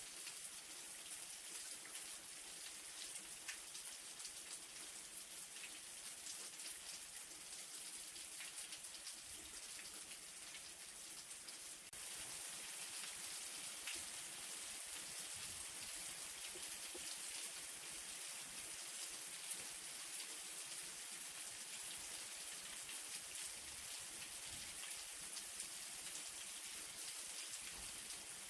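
Light rain falling steadily: a fine high hiss dotted with small drop ticks, stepping up slightly in loudness about twelve seconds in.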